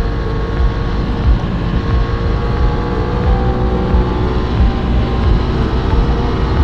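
Sport motorcycle engine running at a steady road speed, its pitch drifting only slightly, with heavy wind buffeting on the helmet-mounted microphone.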